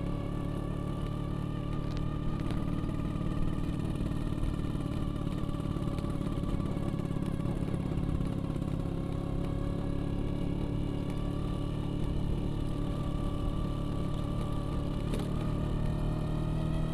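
Vespa scooter engine running at a steady speed while being ridden, its pitch rising and falling only slightly.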